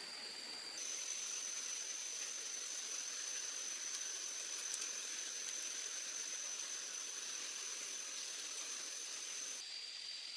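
Jungle ambience: a steady high-pitched insect drone over a soft hiss. The drone jumps to a higher pitch about a second in and drops back near the end.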